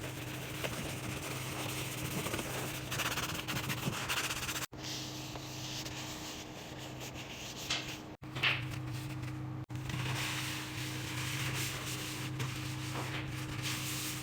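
Scrubbing and wiping the inside of a microwave, a steady rubbing, scratchy sound over a constant low hum, broken off abruptly a few times.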